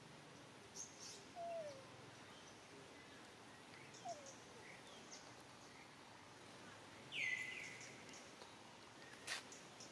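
Quiet outdoor background with faint, scattered high bird chirps. A louder short high-pitched call comes about seven seconds in, and a sharp click a little before the end.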